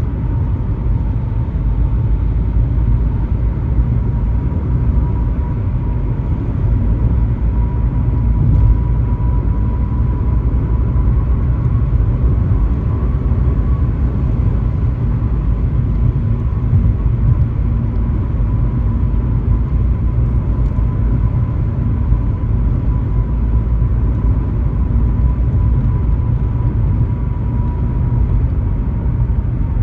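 Car driving along a highway: steady low road and tyre rumble with a faint steady whine.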